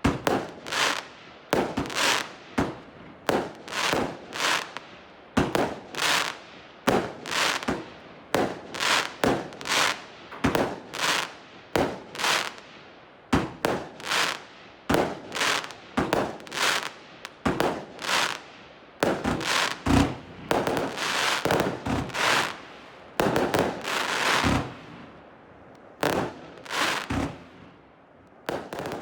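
A 161-shot compound fireworks cake firing shot after shot: sharp bangs about two a second, each trailing off quickly, with a denser run of overlapping bursts about twenty seconds in.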